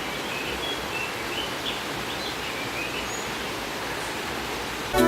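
A bird giving a string of short, high chirps over the steady rush of a stream, the chirps dying out after about three seconds. Background music starts right at the end.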